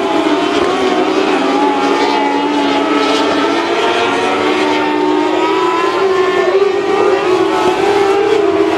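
Several mini sprint race car engines running hard together on a dirt oval. Their overlapping tones waver up and down in pitch as the cars lap.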